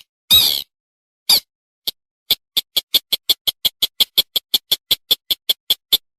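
Slaty-breasted rail calls: a note falling in pitch near the start and another just after a second, then a run of short sharp notes from about two seconds in, quickening to about five a second.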